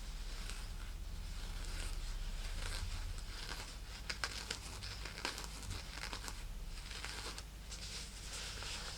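Fingers scratching and crinkling a silk purse close to the microphone: a continuous rustling, with a few sharper ticks about four to five seconds in.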